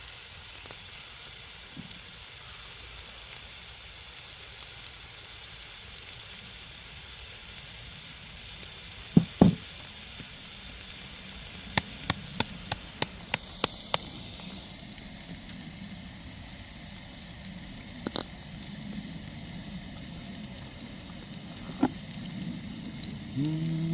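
Food sizzling steadily in a hot pan on the stove. Two loud knocks come about nine seconds in, then a quick run of about seven sharp clicks a few seconds later, and two more single clicks near the end.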